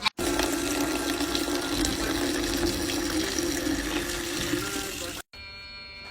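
Running water, a steady rush that cuts off suddenly about five seconds in.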